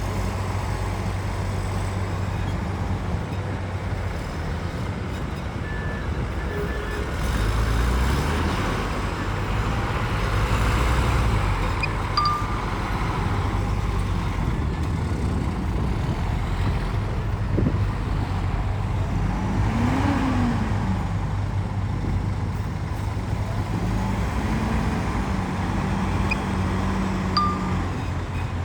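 Heavy diesel earthmoving machinery running and working under load. The engines rise and fall in pitch as they are throttled, with a louder stretch about a third of the way in and a few brief high squeaks.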